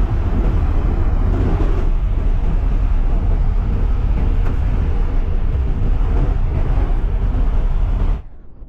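Steady cabin noise of a Cessna Caravan's turboprop engine in a climb, a loud low rumble with rushing air. It cuts off abruptly near the end.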